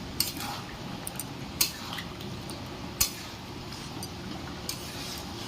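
A spoon clinking against the kadai as the curry is stirred: several sharp clinks, the loudest about a second and a half apart, over a steady low background noise.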